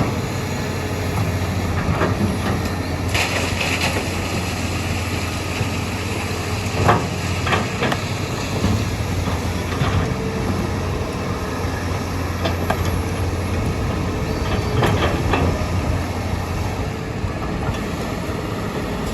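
Heavy diesel excavator engine running steadily under load, with scattered knocks and clanks from the machinery working rock and sand.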